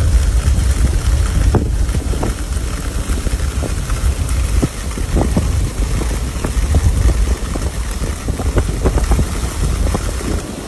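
Storm wind buffeting the microphone in a deep, steady rumble, with short scattered taps over it.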